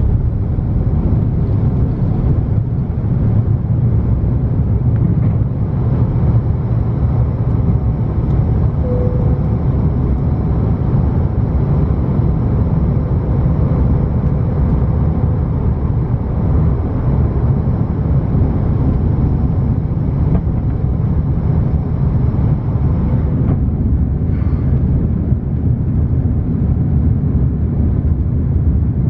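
Steady, loud rumble of an Airbus A330-900 jet airliner's Rolls-Royce Trent 7000 engines and airflow, heard from inside the passenger cabin.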